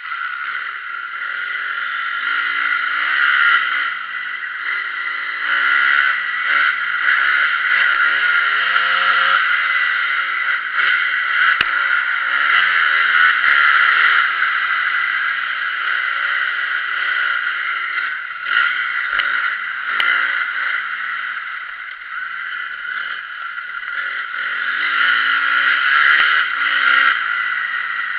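Motocross motorcycle engine being ridden hard, its pitch climbing and dropping over and over as the rider accelerates, shifts and shuts off through the track's sections.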